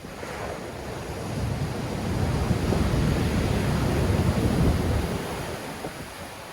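Sea waves breaking and washing ashore in strong wind, with wind buffeting the microphone. One wave swells up from about a second in, is loudest in the middle, and ebbs away near the end.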